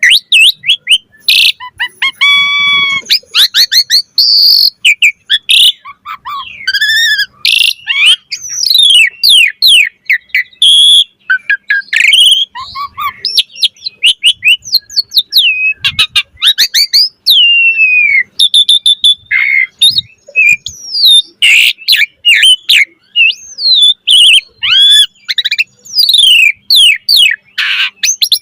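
Pied starling (jalak suren) singing loudly and without pause in full varied song: a fast stream of clear whistles, sweeping notes, rapid trills and harsh chattering phrases.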